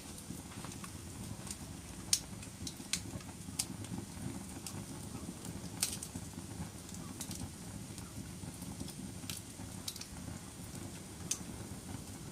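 Wood fire burning in a fireplace: a steady low rumble of flames with sharp crackles and pops at irregular moments, roughly one a second.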